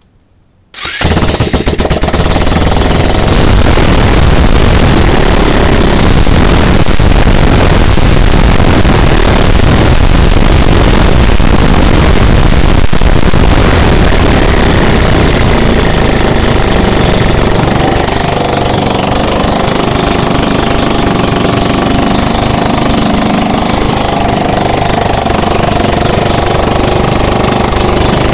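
Freshly rebuilt scooter engine started with the electric starter about a second in, catching at once, then running loud and steady; its level drops slightly about two-thirds of the way through. It runs smoothly, like new.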